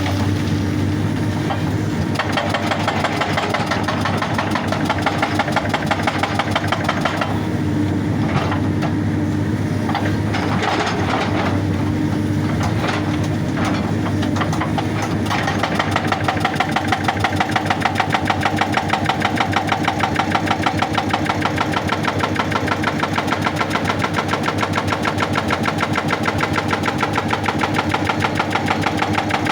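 Excavator's hydraulic breaker hammering rock in rapid, evenly spaced blows over the steady running of the diesel engine. The blows falter briefly a few times in the first half, then run on strongly and regularly from about halfway.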